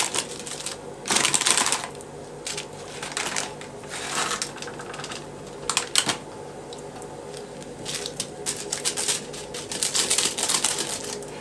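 Rapid, irregular clicking and rustling, louder in clusters about a second and a half in and again around six seconds and ten seconds in, over a faint steady hum.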